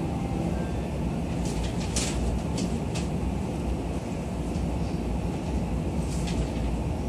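Steady low rumble and hum inside a JR East E231-series commuter train car, with a few sharp clicks about two to three seconds in and another near the end.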